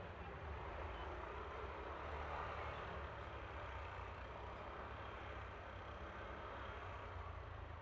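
Single-cylinder engine of a Yamaha Aerox scooter running at a steady speed while riding, with wind and road noise.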